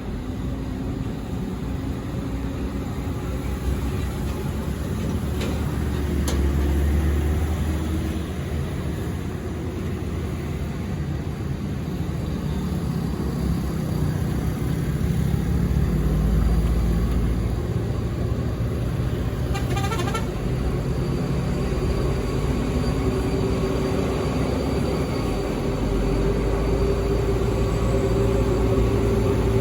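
Diesel engines of long heavy trucks running at low revs, a continuous low rumble with engine hum that swells and eases as they work through the bend.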